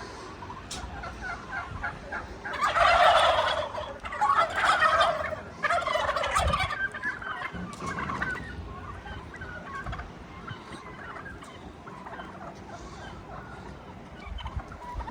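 Domestic turkeys gobbling: three loud, rapid, gurgling gobbles in quick succession a few seconds in, followed by fainter calls.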